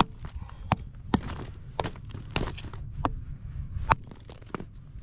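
Lumps of coal being smashed into smaller pieces: about eight sharp strikes, one every half-second to second.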